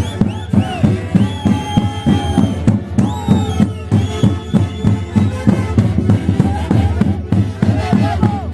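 Live Santiago music from a Huancayo orchestra: a gliding melody over a steady, quick drum beat.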